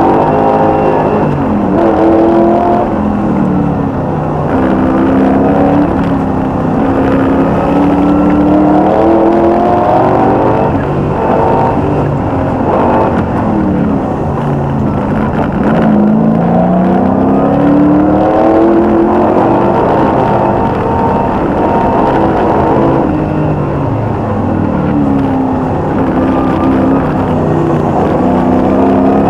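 V8 race car engine at full throttle on a hillclimb, the note climbing and dropping again and again through gear changes.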